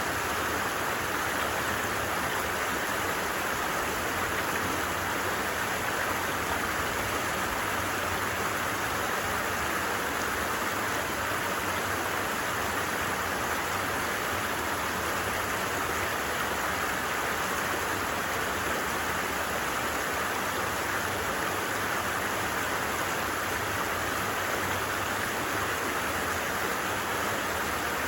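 A creek flowing: a steady, unbroken rush of water with no changes.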